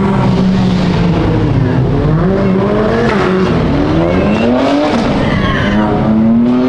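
Several car engines revving and accelerating, their pitch climbing and dropping again and again over the steady hum of an engine idling underneath.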